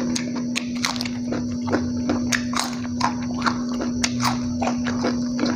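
Close-up mouth sounds of eating a handful of rice, sambal and raw vegetables: wet chewing and lip smacking, many short irregular smacks and clicks, several a second. A steady low hum runs underneath.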